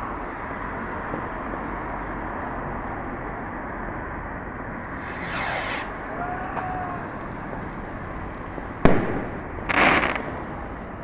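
Fireworks going off over a steady outdoor background hiss: a whooshing streak about halfway through with a brief faint whistle after it, then a sharp bang near the end and a second short burst about a second later.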